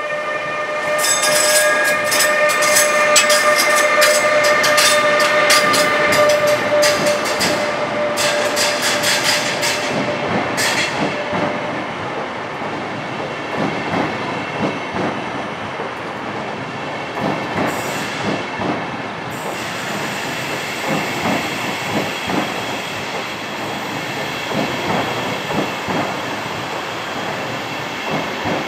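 ÖBB Railjet train led by a Class 1116 Taurus electric locomotive rolling past along the platform. For the first ten seconds or so there is a steady electric whine and a quick run of sharp clicks from the wheels. After that comes the rumble and clatter of the coaches' wheels, with a high hiss joining about twenty seconds in.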